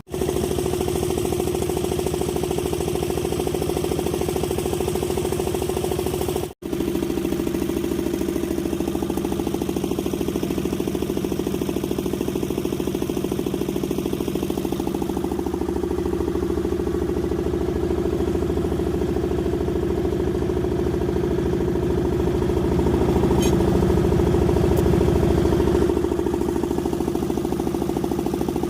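An engine running steadily at idle with an even, unbroken hum, a little louder for a few seconds near the end.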